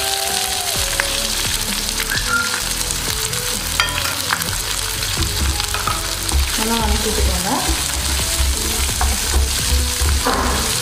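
Chopped onions sizzling in hot oil with dal and green chillies in an iron kadai on a low flame, a wooden spatula stirring and scraping them near the end.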